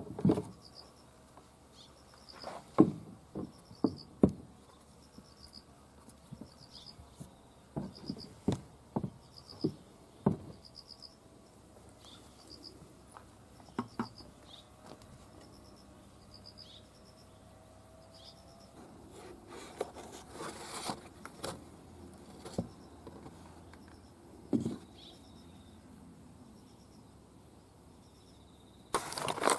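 An insect chirping steadily, a short high chirp about every second, over scattered clicks and knocks and a few seconds of rubbing noise about two-thirds of the way in.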